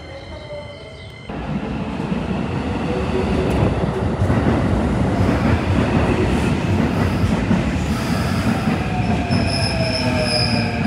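Electric commuter train running on rails, its rumble starting abruptly just over a second in. In the second half come drawn-out high-pitched wheel squeals.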